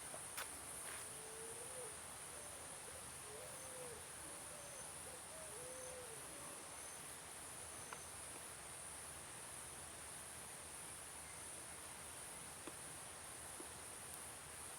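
Steady, high-pitched trilling of insects, with a bird giving a short run of about six soft hooting notes in the first few seconds.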